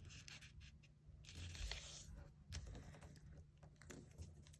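Faint rustling and crinkling of a square sheet of origami paper being handled and creased.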